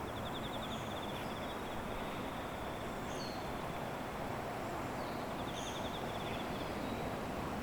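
Outdoor ambience: a steady rushing background noise with scattered short, high bird chirps and a fast, evenly pulsed trill heard twice, near the start and about five seconds in.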